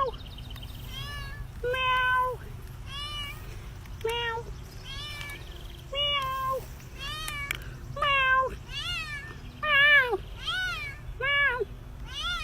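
A cat meowing over and over, short meows about one a second, with a steady low hum underneath.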